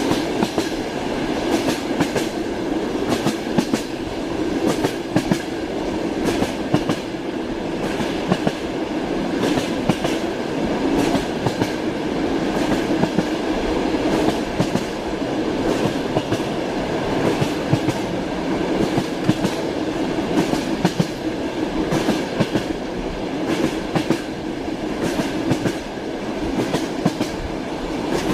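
Train wheels clattering over rail joints while running steadily, a continuous rumble with frequent sharp clicks.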